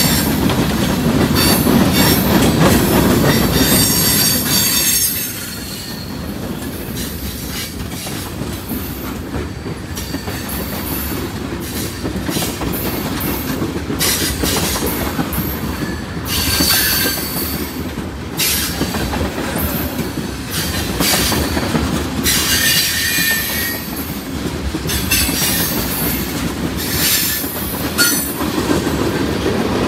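Freight cars of a long train rolling past on the rails, boxcars and then tank cars, with wheels clacking over the track and brief high squeals from the wheels several times. The rumble is louder for the first five seconds, then drops a little.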